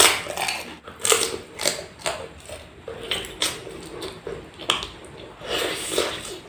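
Close-miked eating sounds: irregular crunches, clicks and clatters from food and utensils, several a second.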